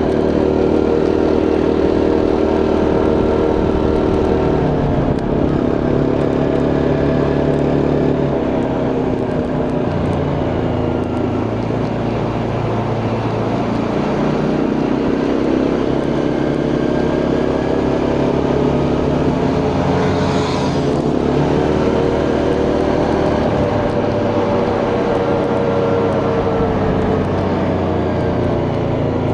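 Quad bike engine running under way, its pitch falling and rising as the throttle and speed change. A short burst of noise comes about twenty seconds in.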